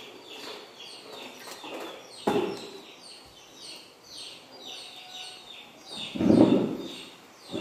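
Birds chirping over and over with short falling chirps, a few each second. A sudden louder dull sound comes about two seconds in, and a longer, louder one near the end.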